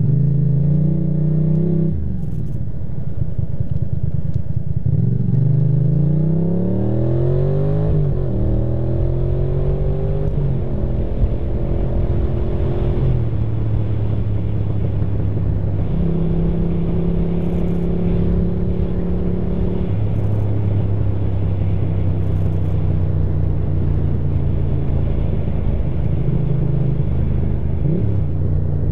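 Ducati motorcycle engine under way. Its pitch climbs and falls back at gear changes twice in the first ten seconds, then it holds a steady cruising note, with wind rush throughout.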